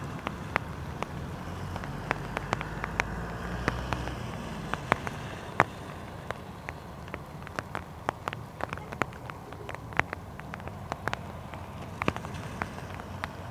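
Steady rain with many sharp drop hits ticking close by, over the low hum of a Beechcraft 99 twin turboprop taxiing. The engine hum is strongest in the first few seconds.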